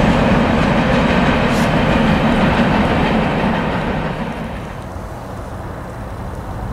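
Norfolk Southern train rolling past, a steady noise of wheels on rail that dies away about four seconds in.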